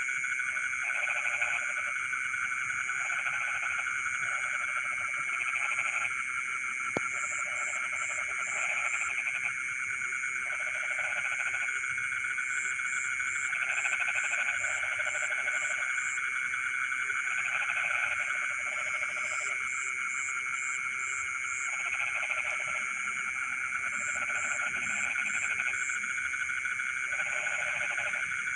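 Dense chorus of frogs calling in a rice field. A steady massed trill runs underneath, lower croaking calls repeat about every one to two seconds, and now and then come quick series of short high chirps.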